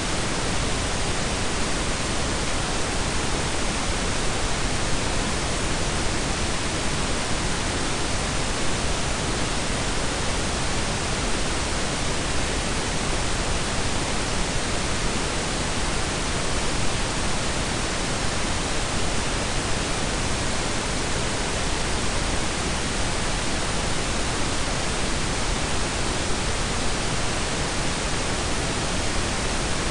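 Synthetic pink and brown noise blended together: a steady, even hiss with a deep rumble underneath.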